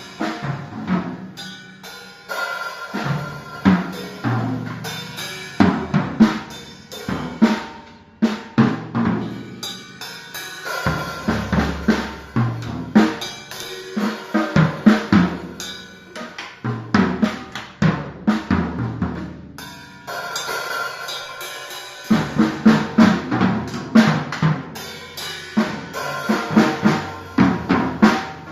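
Drum kit being played: quick, busy patterns of bass drum and snare strokes with fills, pausing briefly now and then.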